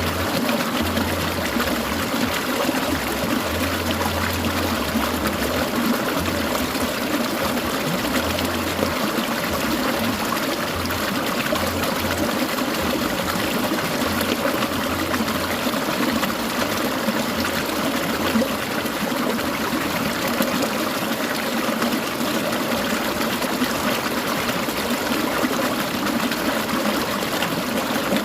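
Clear mountain stream trickling and splashing over rocks, a steady even rush of water.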